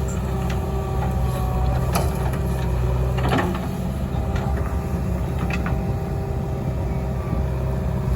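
Diesel engine of a JCB 3DX backhoe loader running steadily under work, with a steady hydraulic whine over it. A few sharp knocks come through it, with a short rattle about three seconds in.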